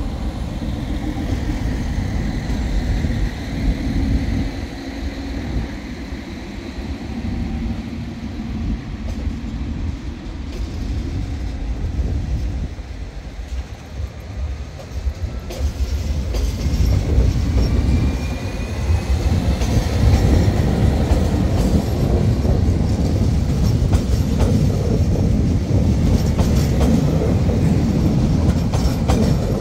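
Alstom Régiolis bi-mode regional train pulling out of the platform on its diesel engines. The engines and the wheels on the rail grow louder about halfway through as the cars pass close by, with a brief rising whine near the middle.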